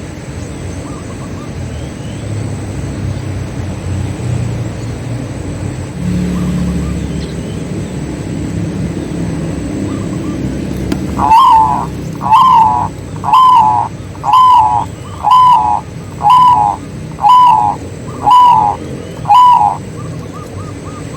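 A bird calling nine times in a loud, evenly spaced series, about one call a second, starting about halfway through, over a low rumble of background noise, with faint chirps from other birds.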